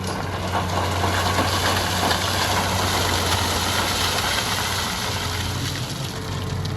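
Heavy diesel engine running steadily with a low hum, under a broad rushing noise that swells through the middle and eases near the end.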